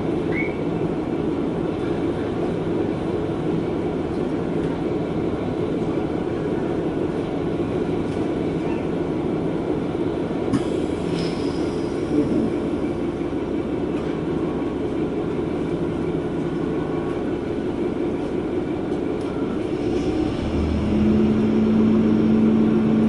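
Diesel railcar running along the line, heard from inside the cabin: a steady rumble of engine and wheels on the rails with a few light clicks. About twenty seconds in, a steady engine note comes up and the sound grows louder.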